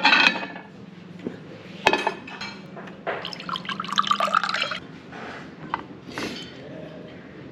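Liquid pouring into a glass for about two seconds, with a few sharp clinks of glass and dishes before it.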